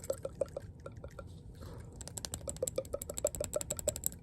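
Rapid, even tapping or clicking on a small hard object, about eight to ten clicks a second, with a short lull about a second and a half in.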